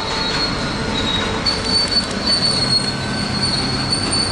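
Container goods train's wagons rolling past with a steady rumble and a thin, high wheel squeal that grows stronger about one and a half seconds in.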